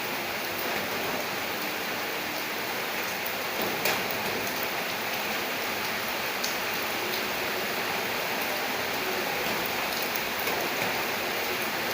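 Steady rain falling, an even hiss with scattered sharper drop taps, a slightly louder splash just before four seconds in.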